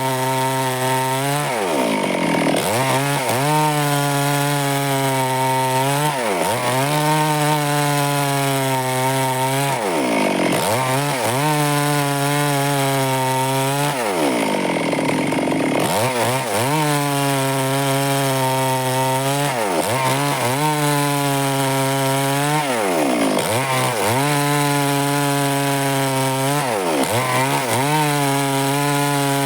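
Stihl two-stroke chainsaw running at high revs while cutting wood. Its engine note dips sharply and climbs back again about every two to four seconds.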